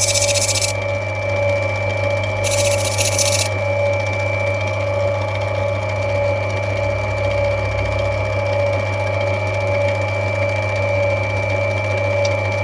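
Lapidary grinding machine running with a steady motor hum while rough opal is rubbed back. Twice in the first few seconds a stone is pressed to the wheel, adding a brief hissing grind.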